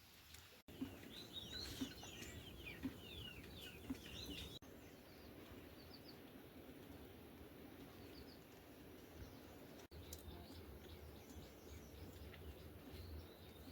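Small birds chirping faintly in quick runs of short, falling calls, busiest in the first few seconds and sparser after, over a steady faint outdoor hiss. The sound cuts out abruptly twice, where separate recordings are joined.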